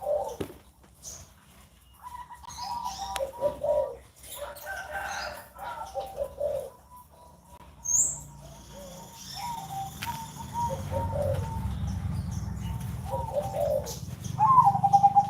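Caged zebra doves (perkutut) cooing: several birds giving repeated phrases of pitched, rolling coos, with a short high chirp about eight seconds in.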